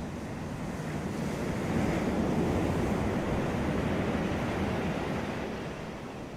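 Ocean waves breaking on a beach: a wave swells to a peak about two seconds in, rushes for a few seconds, then eases off as it washes out.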